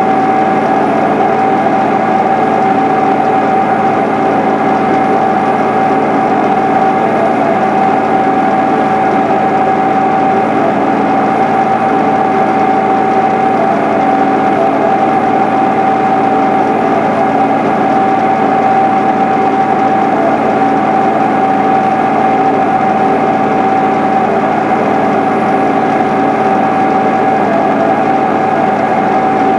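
1993 John Deere 8970 tractor's six-cylinder Cummins diesel running steadily under load, pulling a turbo till, with a steady whine over the engine note.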